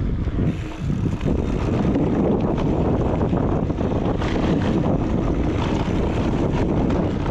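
Wind rushing over a GoPro microphone while riding a mountain bike down a dirt flow trail, mixed with the rumble of knobby tyres on dirt and short rattles and clicks from the bike. It gets louder about a second in as speed builds and then stays steady.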